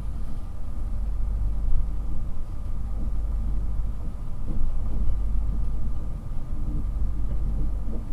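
Interior noise of an East Coast InterCity 225 train (Class 91 electric) heard from a passenger coach as it moves off through the station: a steady low rumble with a faint steady whine above it.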